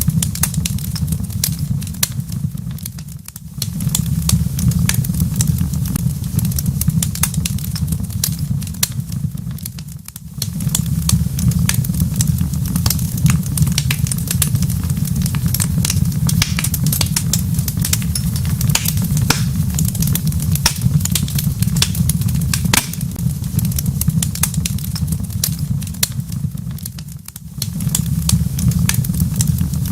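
Wood fire crackling in a fireplace: dense, irregular sharp pops and snaps over a steady low rumble, which briefly drops away three times.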